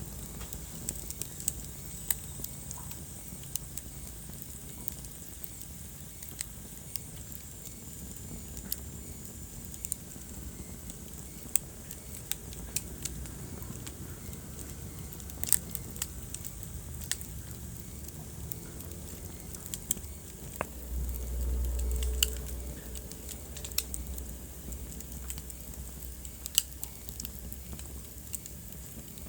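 Wood fire crackling in a fireplace: irregular sharp pops and snaps over a low steady rumble of burning. About three-quarters of the way through, a deeper rumble swells for a couple of seconds.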